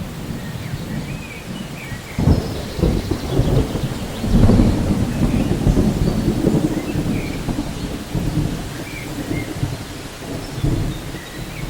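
Rainforest ambience: thunder rumbling over steady rain, swelling about two seconds in and loudest around four and a half seconds, with faint bird chirps above.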